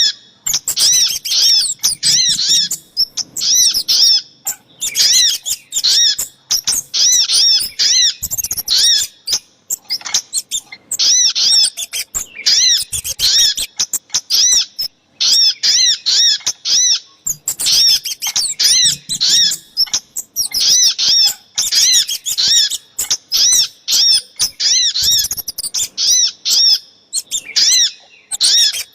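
Bird-lure recording of spiderhunter (sogok ontong) and kemade calls: bursts of quick, high, arched chip notes, several a second, repeated over and over with short breaks between bursts.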